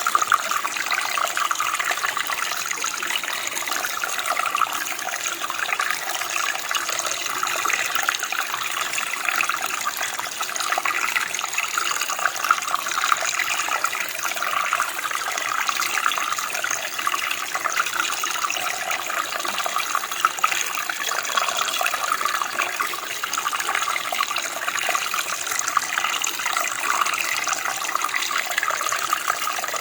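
Running water from a stream, flowing over stones with a steady splashing and babbling.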